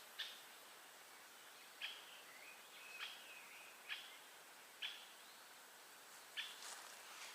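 A bird calling repeatedly in a forest: short, sharp calls about once a second, a few trailing into a brief warble, over a faint steady hiss of background.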